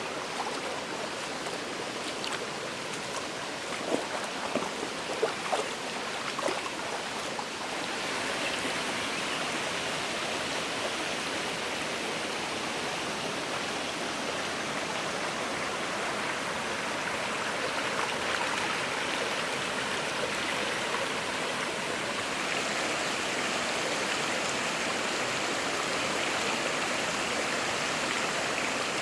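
Waterfall and stream water rushing steadily, with a few short sharp splashes a few seconds in. About eight seconds in the rush becomes louder and hissier.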